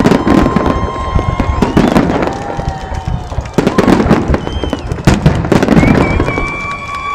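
Fireworks display with a dense run of shell bursts and crackling throughout, mixed with several long whistling tones that each hold for about a second, some falling slightly in pitch.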